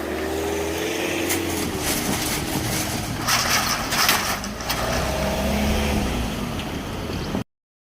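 Road vehicles running and passing close by, with a louder passing swell midway. The sound cuts off abruptly about seven seconds in.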